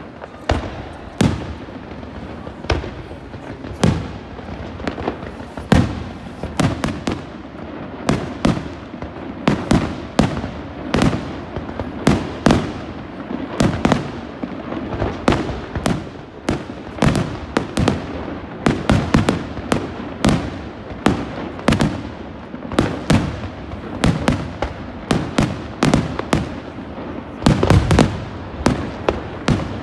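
Aerial fireworks shells bursting in a dense, irregular string of sharp bangs, often several a second, with a cluster of louder, deeper booms near the end.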